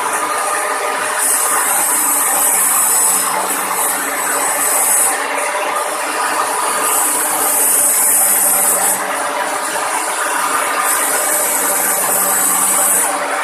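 TIG welding arc buzzing steadily over a low hum. A high hiss cuts in and out three times, each spell lasting a few seconds.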